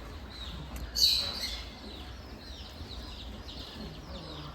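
High-pitched animal chirps, short falling calls repeated over and over, with one louder, sharper call about a second in.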